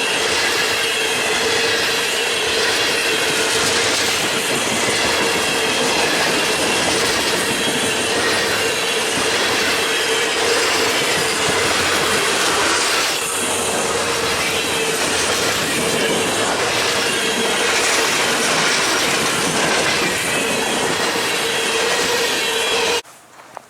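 Freight train cars rolling past, steel wheels clattering over the rail with a steady squeal from the wheels. The sound cuts off abruptly near the end.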